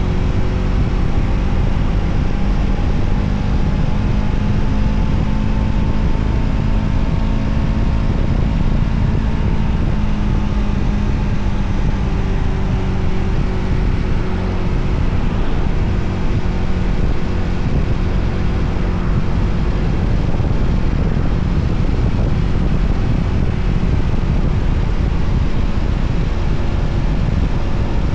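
Voge 300ACX motorcycle's single-cylinder engine running steadily while riding, its pitch drifting slowly up and down with throttle, over constant wind and road rush.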